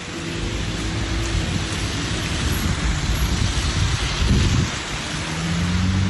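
A steady rushing outdoor noise, with a faint low steady hum about a second in and again near the end.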